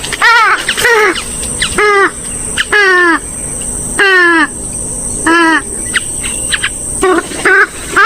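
A rail-family waterbird, swamphen or moorhen, giving a run of loud, nasal, downslurred calls about twice a second, with a short pause near seven seconds in. A steady high insect-like buzz runs behind.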